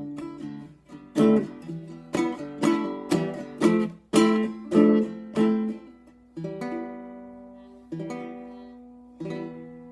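Acoustic guitar strumming the closing chords of a song, with no singing. Quick strokes about every half second slow down, then three last chords fall about a second and a half apart, each left to ring out and fade.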